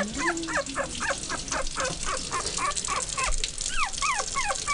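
Teacup poodle puppy whining and yipping in complaint while being bathed: a rapid run of short high-pitched cries, about four or five a second, with a few longer falling cries near the end.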